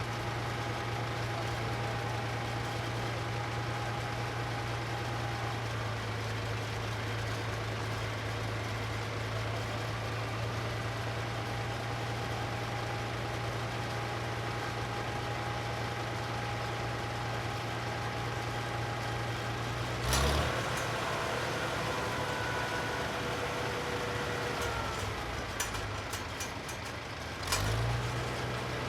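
Farmall 560 tractor engine running at a steady speed. About two-thirds of the way through there is a sudden louder burst and the engine's steady note drops away; near the end another burst comes and the steady note returns.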